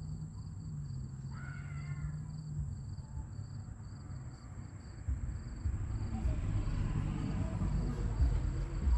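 A bird calls once, briefly, about a second in, over a steady low hum. From about five seconds in, a louder low rumble takes over.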